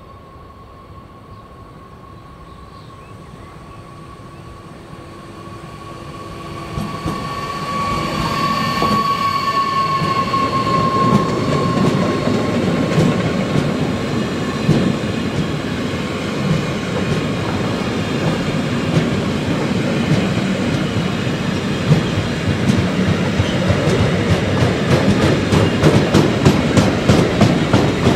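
Freight train hauled slowly by a Bombardier Traxx F140 AC3 (class 187) electric locomotive, approaching and rolling past. A steady high whine is heard as it nears. The rumble swells sharply as the locomotive passes about seven seconds in, and the empty car-transporter wagons follow with a steady rumble and clickety-clack of wheels over rail joints, the clicks coming faster near the end.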